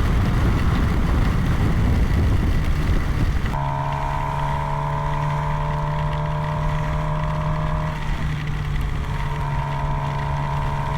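Motorcycle riding noise with wind on the helmet microphone, then about three and a half seconds in a steady electronic tone takes over and holds, changing slightly partway: an incoming phone call ringing through the helmet intercom.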